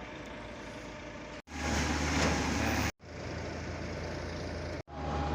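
Construction-site noise with a heavy diesel engine running steadily, heard in short clips joined by abrupt cuts; the second clip is the loudest, with a broad rushing noise over the engine's low hum.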